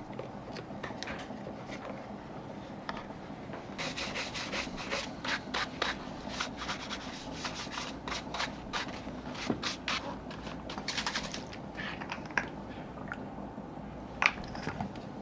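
Irregular hand scraping and rubbing strokes on a shoe during sole repair work, over a steady low hum, with one sharp click near the end.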